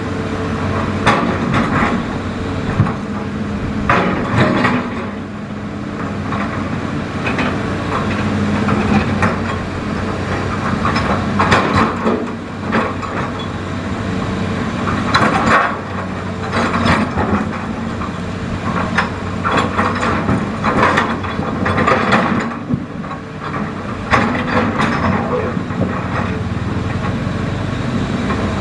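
Hitachi Zaxis excavator's diesel engine running steadily, with repeated clanks and scrapes from the bucket working the riverbed.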